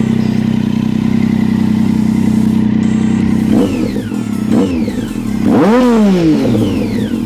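2008 Triumph Street Triple's inline three-cylinder engine idling through an unbaffled Danmoto GP carbon-fibre slip-on exhaust, then revved: two short throttle blips and a longer, higher rev, each rising and dropping back to idle.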